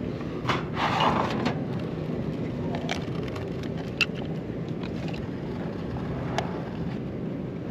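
Engine of a work lift running steadily with a low rumble, with a few sharp knocks or clicks from the work.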